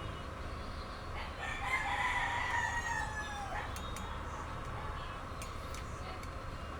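A rooster crowing once: one long call of about two seconds that drops in pitch at the end, over a steady low background noise, followed by a few faint clicks.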